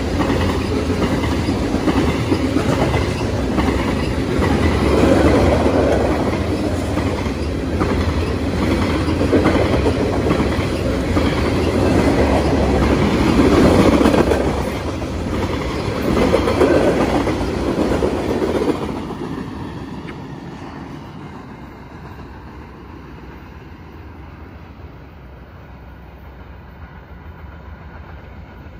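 Freight cars of a manifest train, covered hoppers then tank cars, rolling past close by with the steady clatter of steel wheels on the rails. About two-thirds of the way through the sound drops sharply and then fades as the end of the train moves off.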